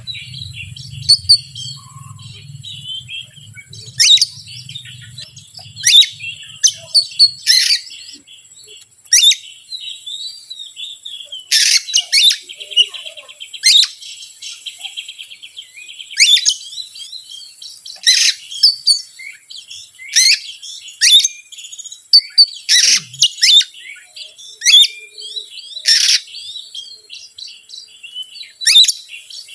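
Oriental magpie-robin song: loud, varied whistles and sharp call notes, one every second or two, with a brief rapid trill about twelve seconds in.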